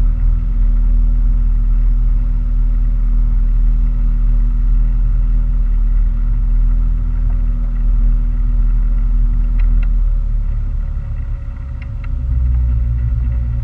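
Boat engine running steadily with a low rumble; about ten seconds in its note changes and dips briefly before picking up again.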